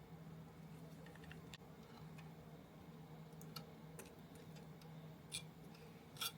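Faint, scattered light clicks and taps of small plastic and metal parts and tools being handled while a model kit is assembled, over a steady low hum. The sharpest clicks come about five seconds in and near the end.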